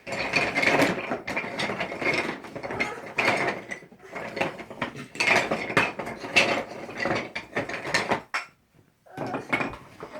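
Hard toy pieces clicking and clattering quickly against one another in long dense runs, with short pauses about four seconds in and near the end.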